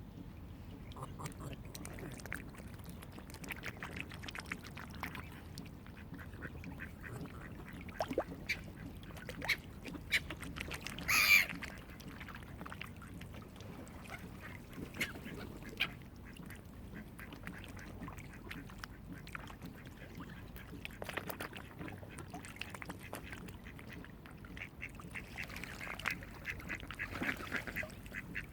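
Waterfowl calling on and off over a low steady background: many short calls, one loud sharp sound about eleven seconds in, and a busier run of calls near the end.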